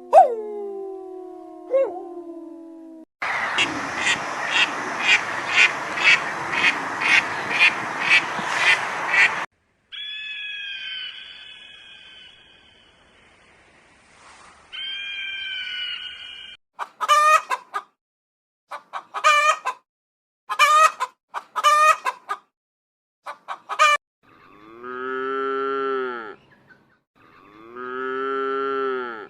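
A succession of different animal and bird calls, one after another. A howl dies away at the start, followed by several seconds of noisy calling with regular peaks about twice a second, then short high calls and, near the end, two longer drawn-out calls.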